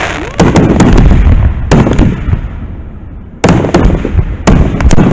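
Aerial fireworks shells bursting in a series of loud booms and sharp bangs over a low rumble. The bangs thin out and fade midway, then a loud bang about three and a half seconds in starts another quick run.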